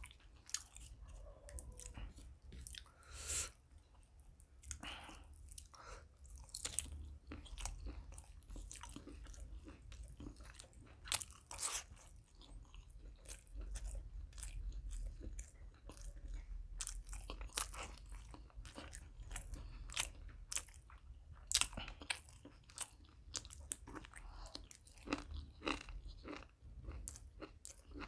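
Close-miked chewing of chicken liver and gizzard curry with paratha: a steady, irregular run of wet chews and sharp crunches in the mouth.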